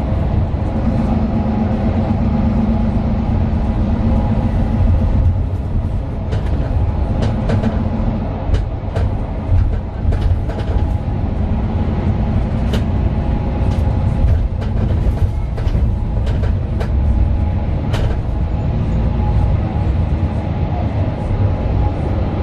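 Mercedes-Benz Citaro 2 city bus under way, heard from inside the passenger cabin: its OM 936 six-cylinder diesel and ZF Ecolife automatic gearbox running with a steady low drone. A humming tone sits over it for the first few seconds, and short rattles and clicks from the body come and go in the middle.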